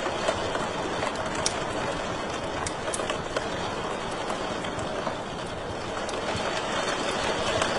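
Wood fire burning in a fireplace: a steady rushing hiss with scattered sharp crackles and pops.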